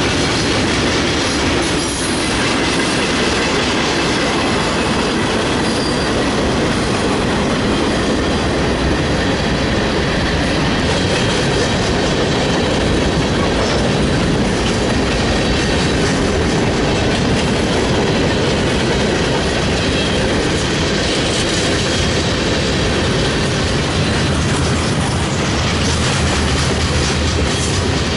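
Freight train cars rolling past, with loud, steady wheel-on-rail noise.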